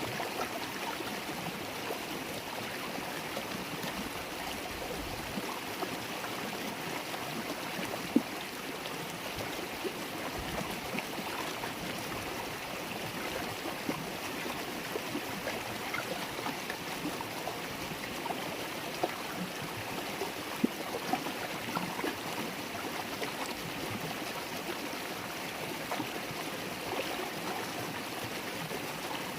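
River water flowing with a steady babbling, with a few brief louder splashes now and then.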